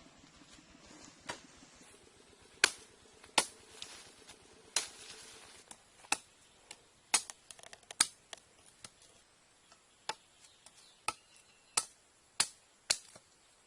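A series of sharp, irregular chops, a blade striking wood or bamboo, about one a second.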